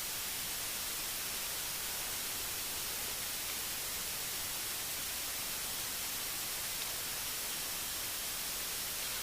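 Steady, even hiss with no distinct events, heavier in the high range.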